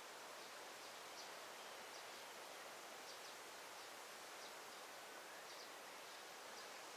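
Faint daytime forest ambience: a steady soft hiss with faint, short, high bird chirps about once a second.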